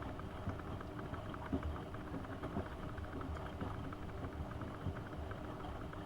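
AEG Öko-Lavamat 72520 washing machine running, a steady motor hum with a constant rattle of small clicks throughout.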